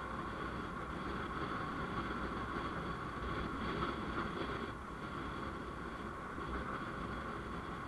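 Steady vehicle noise on the move: an engine hum and road and wind noise, with a constant whine-like band in the mid range and no sharp events.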